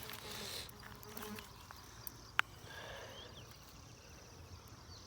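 Rustling and a few sharp snaps from footsteps through dry undergrowth, with a faint rapid insect trill partway through.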